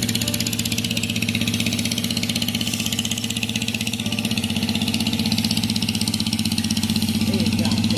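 Fishing boat's engine running steadily close by, with a fast, even chugging pulse.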